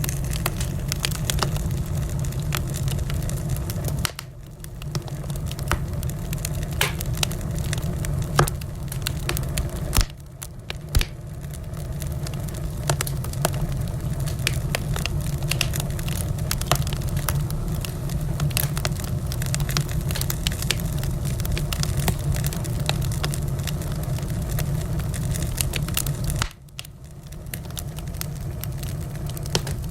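Wood fire burning in a fireplace, crackling continuously with scattered sharp pops over a steady low rumble. The rumble drops out suddenly three times, about four, ten and twenty-six seconds in, then builds back.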